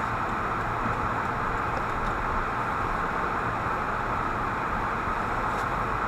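Steady road and engine noise inside a moving car, heard through a dashboard camera's microphone.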